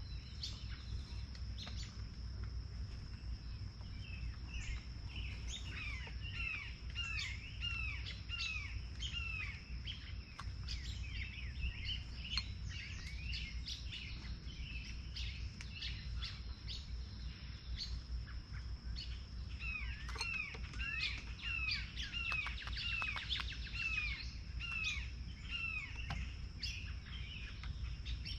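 Small songbirds calling near a feeder: two quick runs of short, down-slurred chirps, one a few seconds in and another about two-thirds of the way through, with scattered chips between. Under them runs a steady high whine and a low background rumble.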